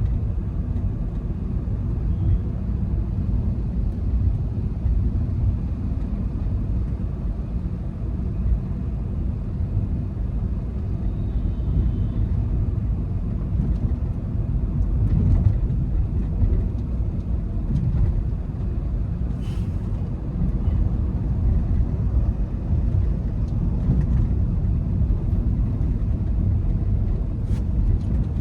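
Volkswagen Vento 1.5 TDI diesel with DSG gearbox being driven: a steady low rumble of engine and road noise.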